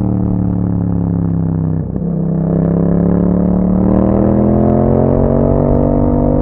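Yamaha MT-07's 689 cc parallel-twin engine through an Akrapovic exhaust with a dB killer, under way on the road. Its note dips and breaks briefly about two seconds in with an upshift, then climbs steadily as the bike accelerates through the next gear.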